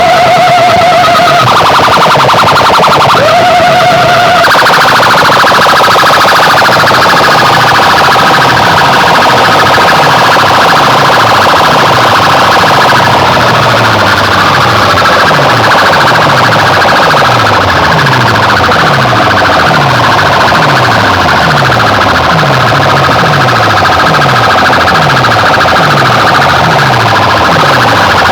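Loud, heavily compressed DJ sound-system track with warbling siren-like alarm effects over a repeating bass hit that drops in pitch, a little over one hit a second. Two short held high tones sound in the first few seconds, and the mix changes after about four seconds.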